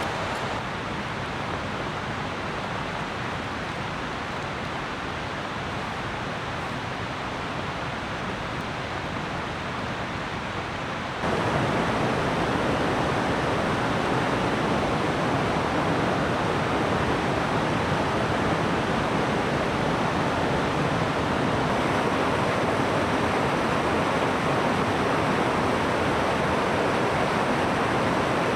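Steady rain, an even hiss, which becomes abruptly louder about eleven seconds in.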